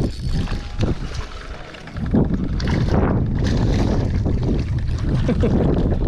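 Wind buffeting the microphone on a small boat on open water, gusty and rumbling. It eases about a second in and comes back stronger about two seconds in.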